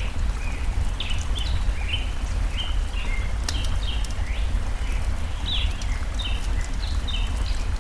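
Layered nature ambience: a forest stream's steady low rush under many short bird chirps repeating several times a second, with a few faint fire crackles.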